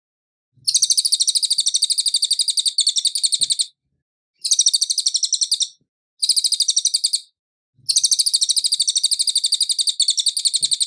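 A cililin songbird singing a fast, high trill of rapidly repeated notes, about ten a second. It comes in four bursts: two long ones at the start and end, and two short ones between them.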